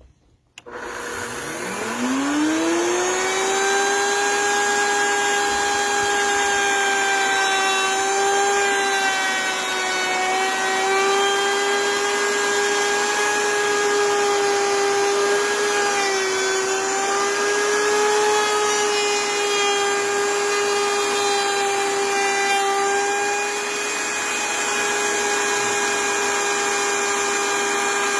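Electric woodworking router starting up with a rising whine, then running at a steady high pitch, dipping slightly in pitch now and then.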